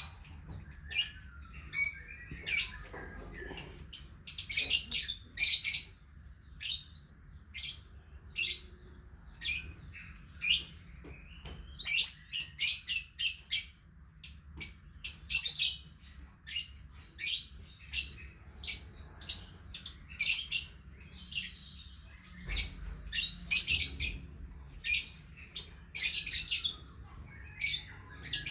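A songbird chirping: short, sharp high notes repeated over and over in quick runs, with brief pauses between runs.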